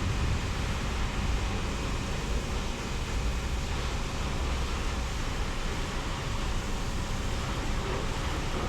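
Automatic car wash machinery running, a steady rushing noise with a low rumble underneath.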